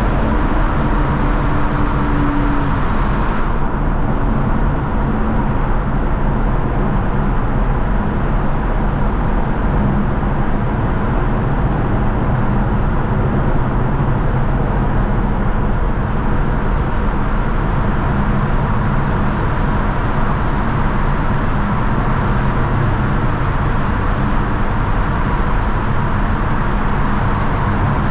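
Mercedes-AMG C43 driving at a steady pace: a low, even engine and exhaust drone under steady tyre and road noise, with no revving.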